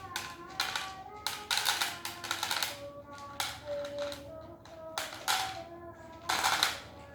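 Background music with steady held notes, over crisp, irregular crunching and clicking: cats chewing dry kibble.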